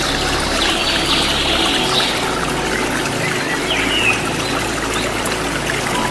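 Waterfall rushing steadily, with a few birds chirping over it.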